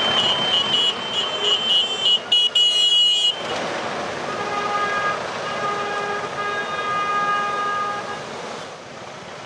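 Vehicle horns honking in repeated short toots over road traffic noise, the honking breaking off about three seconds in.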